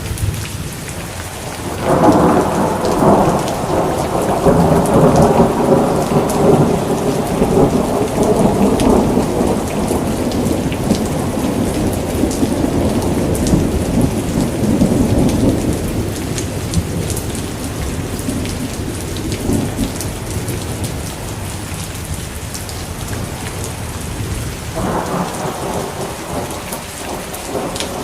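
Steady rain falling, with rolls of thunder: one rumble starts about two seconds in and slowly fades over some fifteen seconds, and another begins near the end.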